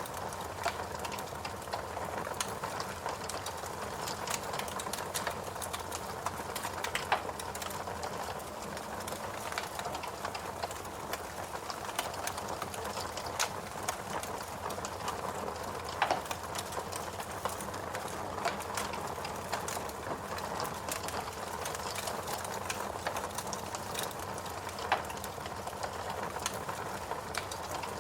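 Wood fire crackling steadily in a fireplace, with many small irregular pops and a few louder snaps, over a constant soft background hum.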